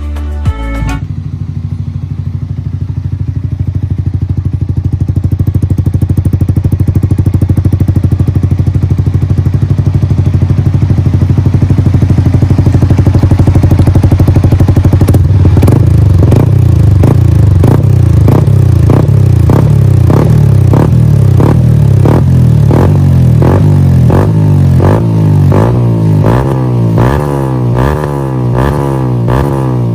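Yamaha R15 V3's single-cylinder engine through an aftermarket Akrapovic exhaust, idling steadily. From about halfway it is revved in repeated quick throttle blips, each rising in pitch and dropping back.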